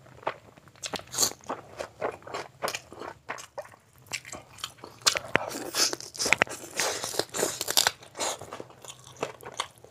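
Close-miked chewing of a mouthful of biryani and curry eaten by hand: a run of quick, wet mouth smacks and clicks, thickest about five to eight seconds in.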